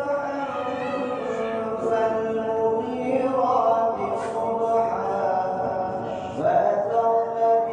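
A man's voice chanting Islamic devotional recitation, melodic and unaccompanied, drawing out long held notes that bend between pitches.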